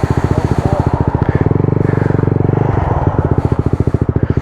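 125 cc single-cylinder motorcycle engine running through an aftermarket Mivv GP Pro exhaust, a steady low-rev exhaust beat. It picks up revs about one and a half seconds in and drops back to the slower beat a little before three seconds.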